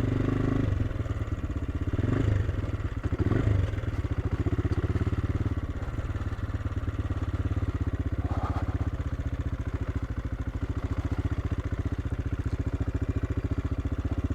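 AJP PR7's single-cylinder engine running at low revs under way, with an even pulsing beat and a couple of brief swells in revs about two and three seconds in.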